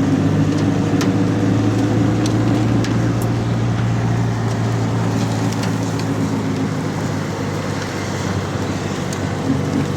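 Steady low hum of an idling motor vehicle engine, with a few sharp taps scattered over it, in the rain.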